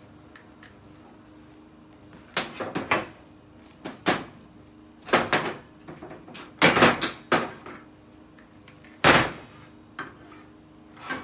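Irregular knocks and clatters of things being handled and set down, in five or so separate groups. The one about nine seconds in is among the loudest.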